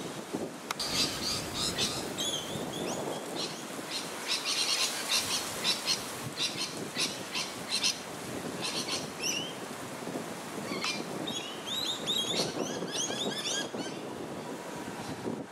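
Small birds chirping and calling in quick, repeated high notes, with a busier run of sliding calls a few seconds before the end, over steady background noise.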